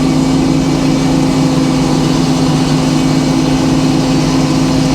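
Sawmill engine running steadily at a constant speed, with an even hum.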